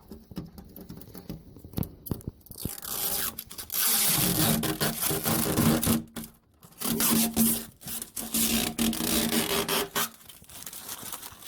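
Protective plastic film being peeled off the glass of a new double-hung window: a scraping, tearing rasp with a faint squeal, in two long pulls, loudest from about four seconds in.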